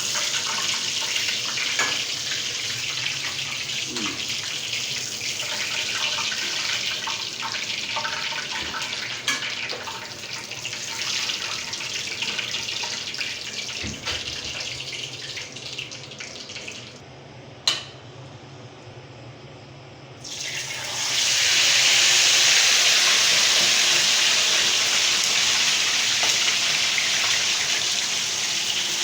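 Chicken pieces frying in hot oil, a steady sizzling hiss. A little past halfway the sizzle dies down for a few seconds with a single sharp click, then comes back louder.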